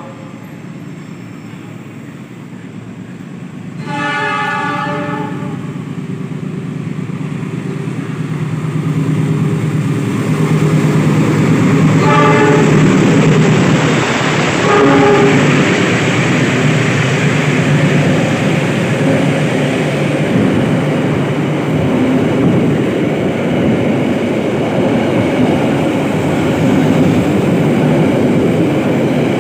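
A train sounds its horn once, about four seconds in, as it approaches. It sounds two short toots a few seconds later. Then it passes close by with a loud, steady rumble of wheels and cars.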